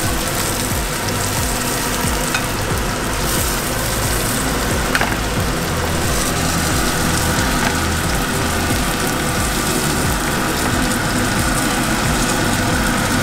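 Butter and olive oil sizzling steadily in a hot frying pan on the stove, where flour-and-egg-coated fish fillets have been frying.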